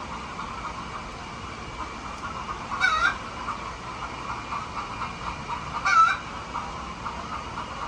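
Flock of chickens clucking steadily, with two louder squawks about three seconds apart, the second the loudest.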